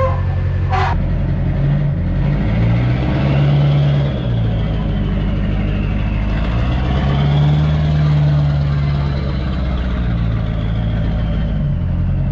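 A vehicle engine running steadily, its revs rising and falling twice as it works, with a faint high whine over it.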